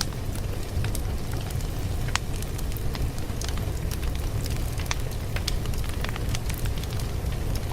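A wood fire crackling: irregular sharp pops and snaps over a steady low rumble.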